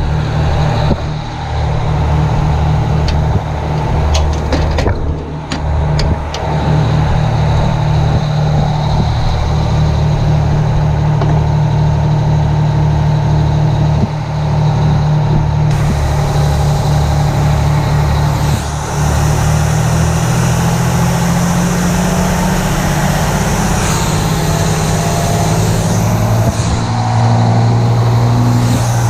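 Detroit Diesel engine of a 1980 Howe fire truck running steadily under load, its pitch stepping up a little about two-thirds of the way through.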